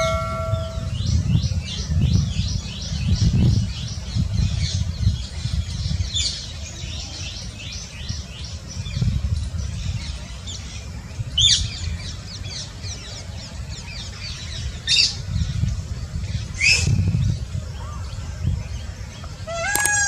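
Small birds chirping: a quick run of short high chirps for about the first ten seconds, then a few separate high, falling calls, over a steady low rumble.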